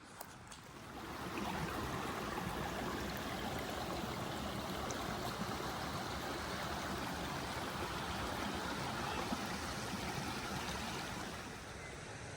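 Water of a stream rushing over stones: a steady noise that swells about a second in and drops back near the end.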